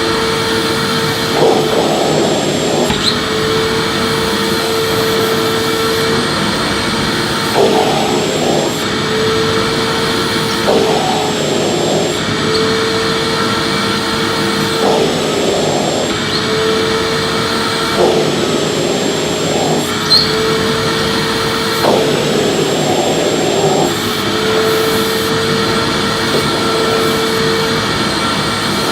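Vacuum cleaner running steadily while being pushed back and forth in sweeping strokes. Its constant whine is interrupted every few seconds by a rougher rush of air lasting a second or two.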